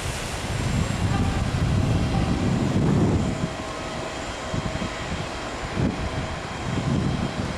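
Jet airliner engines rumbling, the rumble swelling over the first few seconds and then easing, with wind gusting on the microphone.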